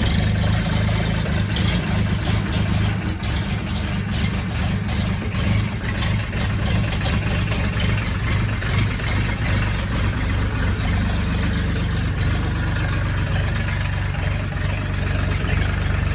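Mahindra Max 26 XLT tractor's Mitsubishi-built diesel engine idling steadily just after a cold start, having caught after glow-plug preheat in 1-degree weather.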